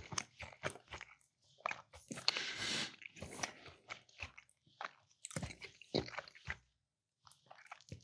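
Close-miked chewing and eating with mouth clicks, in short irregular bursts with brief pauses between.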